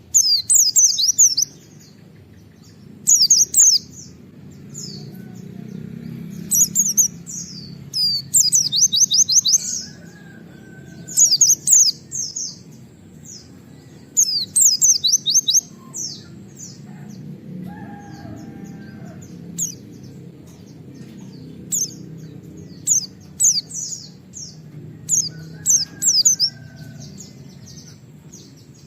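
A white-eye (pleci) sings its 'wit wit' shooting song: bursts of sharp, high chirps, some in rapid runs of about eight notes, coming every second or two. A low, steady background noise runs underneath.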